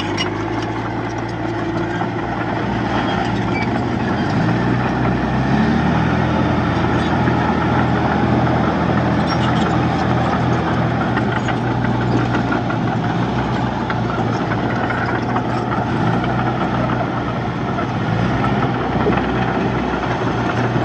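Heavy diesel engine of earthmoving machinery running steadily under load. It revs up about four seconds in, and twice more near the end.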